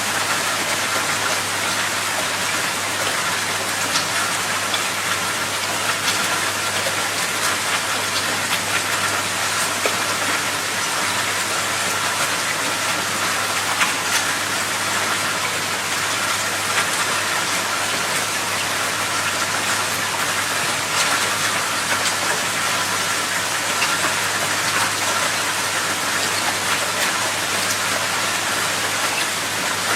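Water rushing and pattering in a steady, dense hiss, with scattered small ticks throughout.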